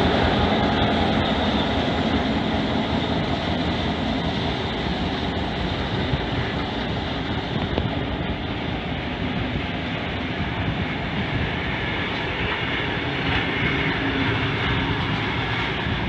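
Diesel-electric locomotive 42103 running as it draws a rake of heritage wooden passenger carriages slowly past. The engine's steady rumble is loudest at first and eases a little as the locomotive moves away and the carriages roll by with wheel and rail noise.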